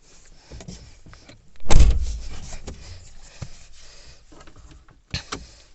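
A car door shutting with a heavy thump, amid scattered clicks and knocks, then two sharp clicks near the end.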